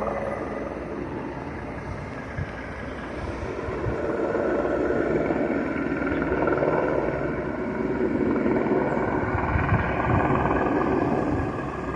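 Police helicopter flying, its rotor and engine noise steady and growing louder a few seconds in, then easing near the end.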